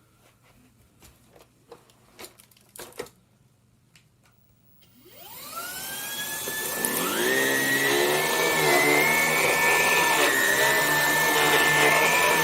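A few light handling clicks, then the Vax Blade 4 cordless stick vacuum switches on about five seconds in. Its motor whine rises over a couple of seconds to a steady high running tone, wavering in pitch as it picks up spilt flour from a rug.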